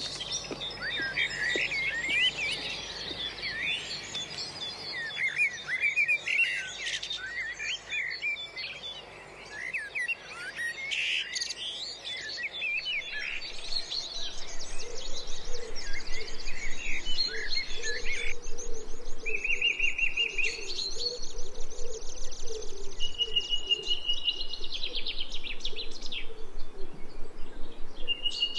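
Birds chirping and calling, a dense mix of many short notes. From about halfway a fast, buzzing high trill joins in, with a few longer steady whistled notes near the end.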